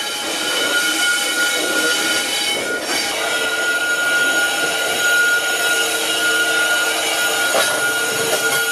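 GBRf Class 66 diesel locomotive slowly hauling a new Class 803 electric unit, its wheels squealing steadily on curved yard track with a high, unwavering tone. Two short knocks come about three seconds in and near the end.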